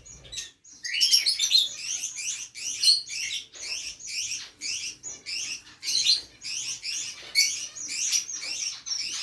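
Pet parrot chirping over and over: a fast string of short, high calls, about two or three a second, with barely a pause.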